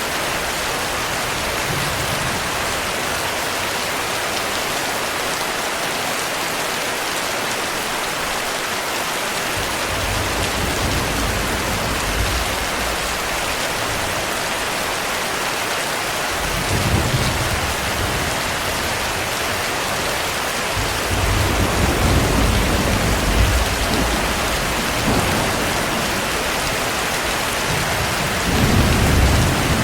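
Steady heavy rain with rolling thunder: low rumbles come in several times, the longest a few seconds after the middle and another near the end.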